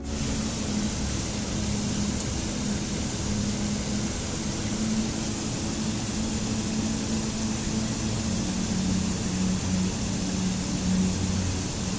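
Steady rushing water, an even hiss that cuts in suddenly at the start, with a soft sustained low musical drone beneath it.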